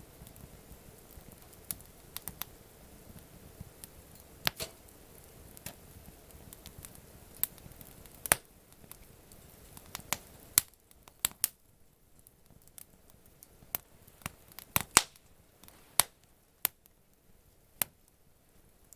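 Wood campfire crackling, with irregular sharp pops and snaps over a low background hiss that drops away about halfway through.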